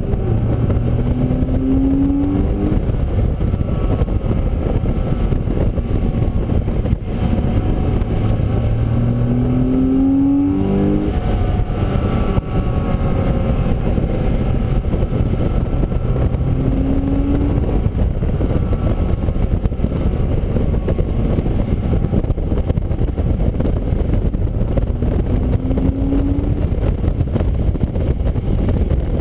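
Race car lapping a wet track, heard onboard: the engine runs hard under a loud, steady rush of wind and road noise, its pitch climbing in short rises four times as the car accelerates.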